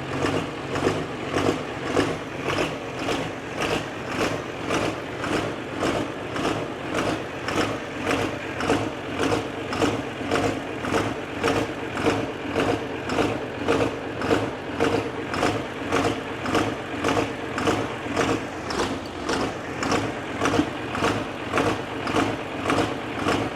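12-valve Cummins inline-six diesel turning over unevenly, its sound pulsing about twice a second, while air is still being worked out of the freshly bled fuel system.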